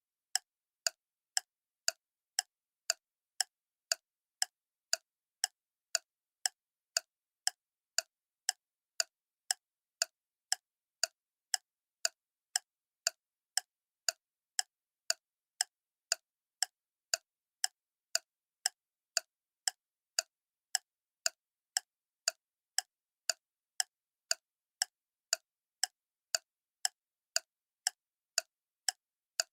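Clock ticking steadily, about two crisp ticks a second with silence between them.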